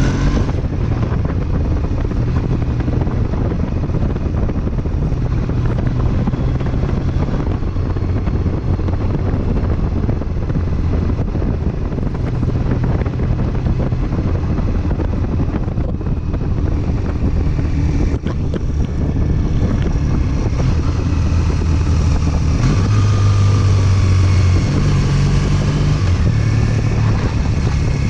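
Triumph Bonneville parallel-twin engine running on the move, with wind buffeting the microphone. The sound dips briefly about two-thirds of the way through, and the low engine note grows stronger in the last few seconds.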